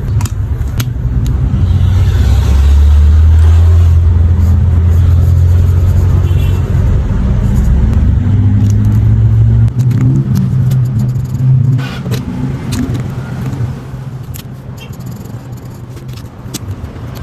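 A loud, low engine rumble that holds steady for several seconds, then fades away in the second half, with scattered light clicks over it.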